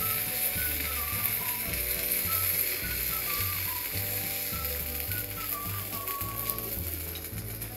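Eggplant slices sizzling in oil on a flat tawa, with a spatula scraping and clicking against the pan as slices are lifted out. Soft background music with a steady beat runs underneath.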